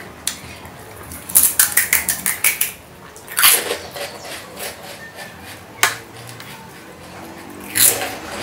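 Close-up eating sounds of a mouthful of pani puri: a quick run of crunches as the crisp puri shell is chewed, then wet, noisy slurps and chewing.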